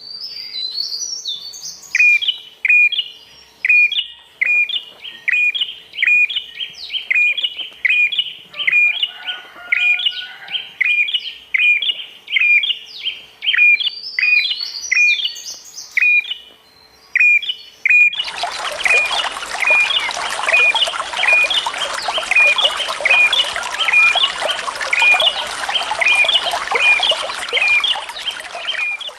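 A songbird calling a short, sharp note over and over, about one and a half times a second, with higher twittering notes mixed in. About two-thirds of the way through, a steady rush of water starts up under the calls.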